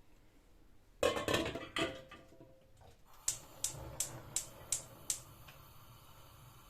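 Kitchen clatter of dishes knocking together about a second in, followed by six quick, evenly spaced clicks, about three a second, over a steady hiss.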